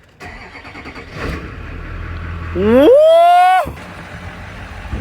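Car engine starting and running, then revved hard once about two and a half seconds in: the pitch climbs quickly, holds for about a second and drops away suddenly as the throttle is released.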